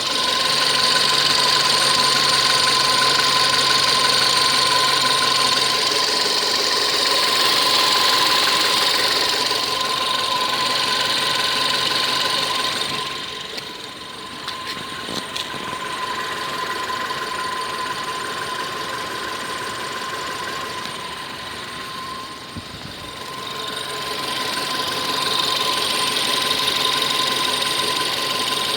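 Car engine idling with its automatic transmission in Park, giving off a steady high whistle over the engine sound. The whistle comes from the transmission in Park. The sound gets quieter for a couple of seconds about halfway through, and again about two-thirds of the way in.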